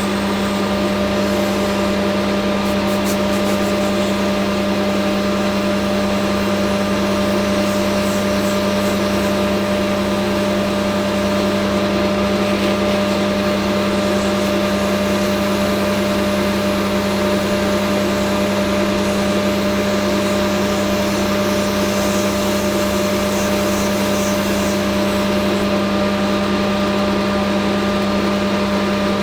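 Hafco AL960B metal lathe running at a constant speed, its motor and drive giving a steady hum with no change in pitch or level.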